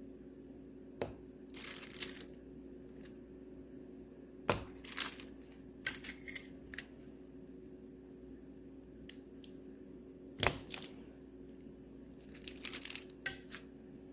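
Knife chopping through a block of wax melt: several sharp knocks of the blade on the board, each followed by crackly crunching as the wax breaks apart into slices.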